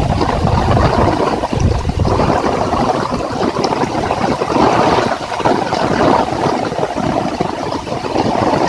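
Heavy rain pouring down steadily, with wind gusting on the microphone as a low rumble in the first couple of seconds.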